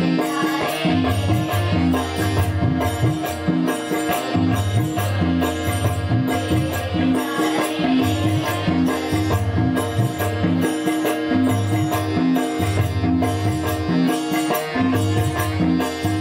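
Bhajan music played by a devotional group: a steady, fast beat of drum strokes with jingling hand percussion over sustained melody.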